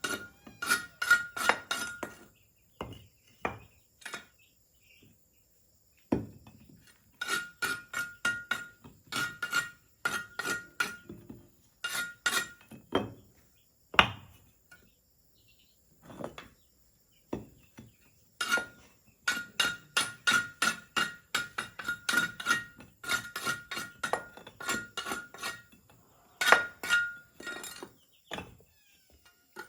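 Repeated blows of a hand tool with a ringing metallic note, coming in runs of several strikes a second separated by short pauses.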